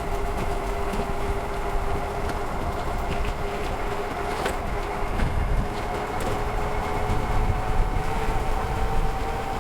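The Tuttio ICT 2.0's geared electric hub motor whines steadily under load while the bike is ridden uphill, over a low rumble of wind and tyres. Near the end the whine creeps slightly higher in pitch.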